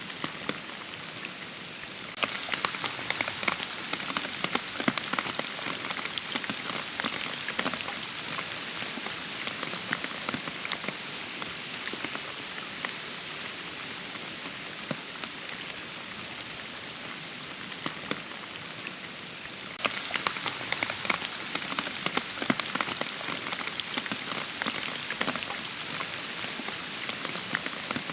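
Steady rain falling, with many distinct drops striking close by. It turns suddenly heavier about two seconds in, eases off gradually, then turns heavier again about two-thirds of the way through.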